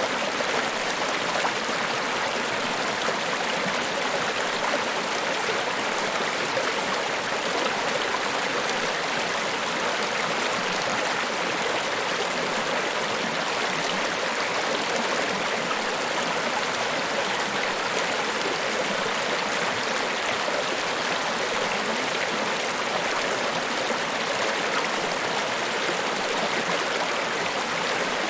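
Water of Niagara Falls rushing down in a steady, even hiss that never changes, with little deep rumble underneath.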